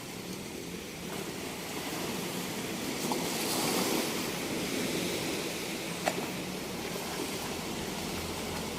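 Sea waves washing onto a beach: the surf swells to a peak about four seconds in as a wave breaks, then eases back into a steady wash.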